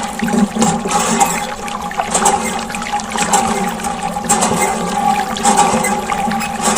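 Water from a small homemade model pump gushing and splashing steadily, with a steady low hum underneath.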